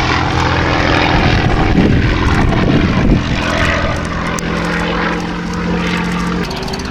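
The Silver Spitfire's Rolls-Royce Merlin V12 engine and propeller, flying in a display. The engine note shifts a couple of times as it passes.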